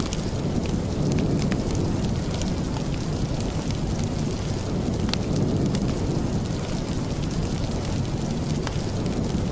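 Steady heavy rain, a dense even hiss with a deep low rumble under it, scattered with small sharp ticks.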